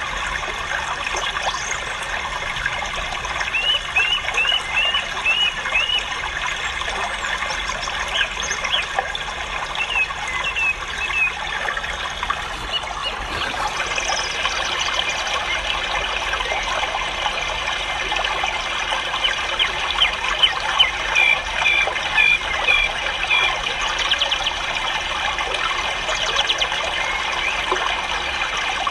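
Many caged ornamental birds chirping and chattering together in a dense, unbroken chorus, with runs of quick repeated chirps standing out now and then.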